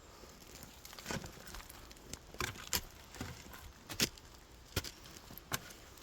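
Soil being dug and picked at with a hand tool: irregular scraping with sharp clicks and knocks, about seven of them, as the side of the pit is broken down.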